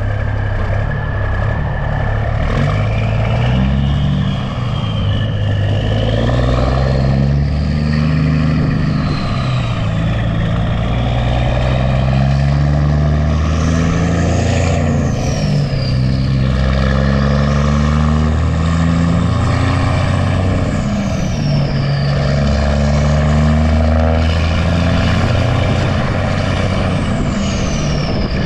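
Diesel semi truck engine pulling a load, its revs climbing and then dropping in steps as it shifts through the gears. A high falling whistle comes in a few times over the engine.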